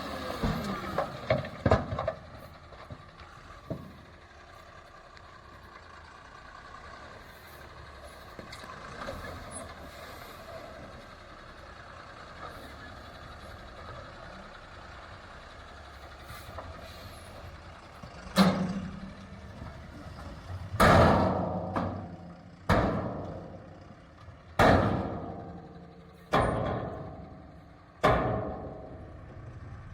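Heavy machinery at a soil-loading site: an engine running low, then about two thirds of the way in a run of six loud, sudden sounds roughly two seconds apart, each dying away over about a second.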